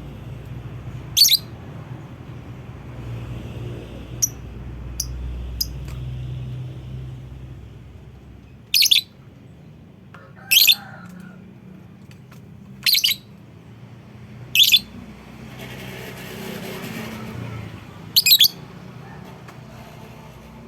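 Lovebird calling: about six short, shrill calls spaced a few seconds apart, over a low steady hum.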